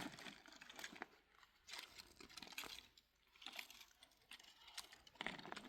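Faint scattered clicks and rustles, as of small objects being handled.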